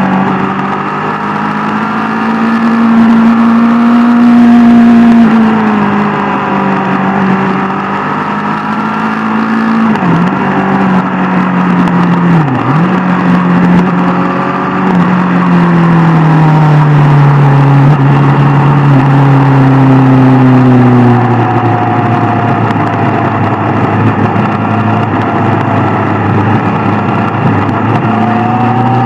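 Sport motorcycle engine under way, its note rising and falling with the throttle: it climbs early on, dips sharply twice briefly around ten and thirteen seconds in, falls slowly for several seconds, then rises again near the end.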